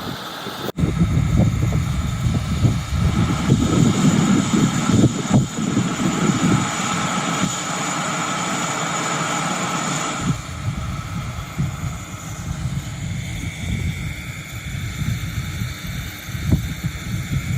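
JR 185 series electric train running, a steady heavy rumble with a few held whining tones above it. It starts abruptly about a second in and drops to a quieter, steadier running sound about ten seconds in.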